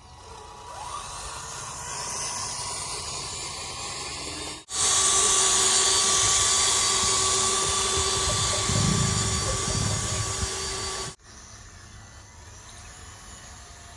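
Small DC gear motor of a model tractor running with a steady whine. The sound jumps louder about five seconds in and cuts off abruptly near eleven seconds, then drops to a quieter hum.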